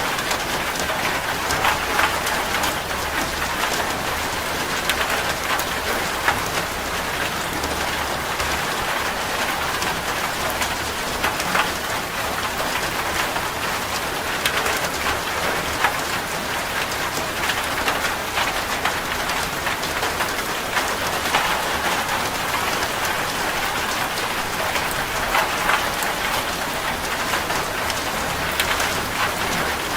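Steady heavy rain drumming on a corrugated zinc roof, a dense hiss with many individual drops ticking sharply on the metal.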